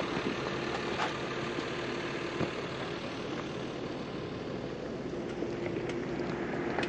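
Jeep engine running steadily, with a faint steady hum and a couple of small knocks about one and two and a half seconds in.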